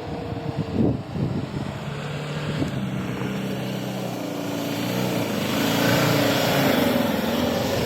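Diesel SUV engine running and revving, its pitch shifting up and down, louder in the second half.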